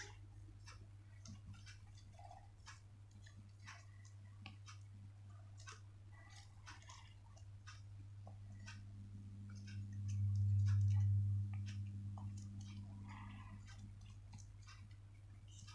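Paper being handled and folded by hand: scattered soft crinkles and taps. Under them runs a low steady hum, which swells louder for a second or two about ten seconds in.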